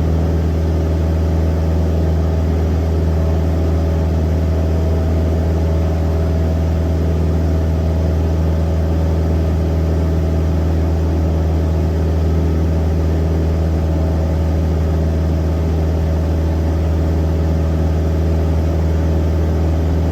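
Cessna aircraft engine running steadily at constant power: an even, deep drone with steady tones above it and no change in pitch or loudness.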